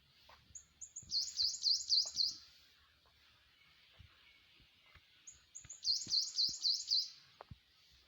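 A small songbird singing two phrases about four seconds apart. Each phrase opens with two or three short high notes, then runs into a quick series of five or six repeated swooping notes.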